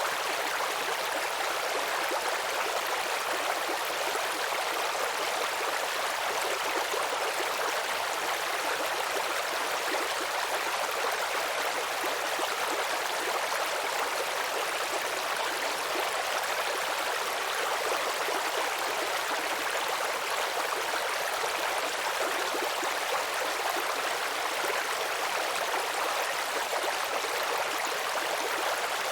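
Babbling brook: shallow stream water trickling and gurgling steadily and evenly.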